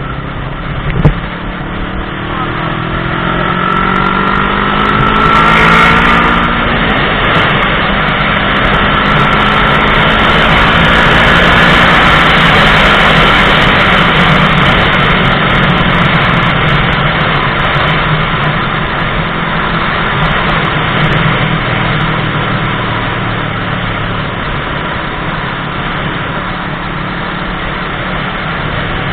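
Motorcycle engine accelerating hard, its pitch climbing for the first few seconds and dropping about six seconds in, then running at high speed under a heavy rush of wind noise.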